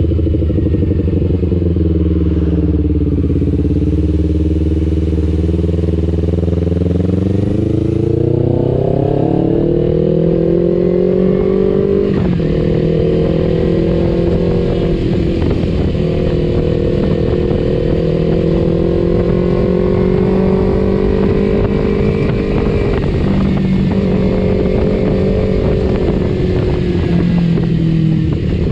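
Kawasaki Ninja 250FI parallel-twin running through an aftermarket R9 H2 exhaust while being ridden. The engine note sits low for a few seconds, then climbs steadily under acceleration and holds at cruising revs, with brief drops in pitch at gear changes.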